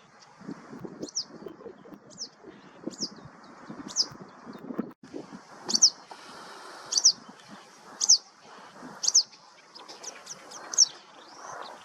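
A bird calling over and over with short, high, downslurred notes, about one a second, louder in the second half.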